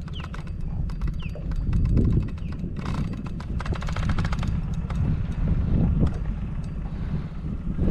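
Wind buffeting the microphone as a steady low rumble, with a string of irregular small clicks and knocks over it.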